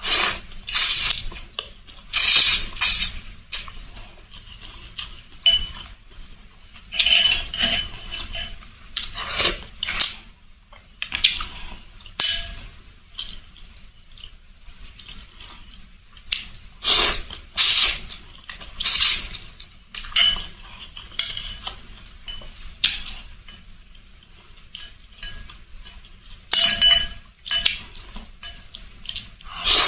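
Close-miked eating sounds from a bowl of spicy rice-vermicelli noodle soup: a spoon or fork clinking against the bowl, with short slurps of noodles and broth, in irregular bursts every second or two.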